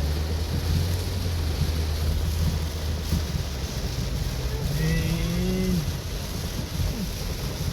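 Inside a car driving in heavy rain: a steady rush of rain and water spray over the low hum of the engine. About five seconds in, a short pitched sound rises briefly over it and bends down as it ends.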